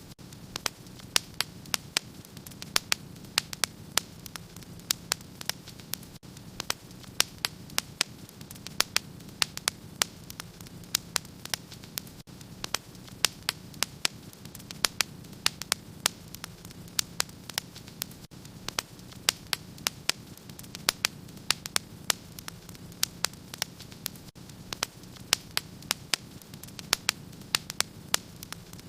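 Wood fire in a fireplace crackling: sharp, irregular pops and snaps, several a second, over a steady low rushing hiss of the flames.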